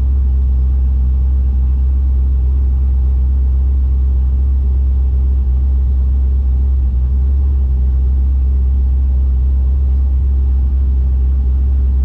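Chevrolet COPO Camaro's V8 idling steadily, heard from inside the cabin, with a heavy low rumble.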